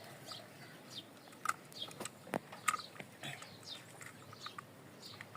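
Parrot chirping: a run of short, quick chirps that slide down in pitch, with a few louder chirps and clicks in the middle.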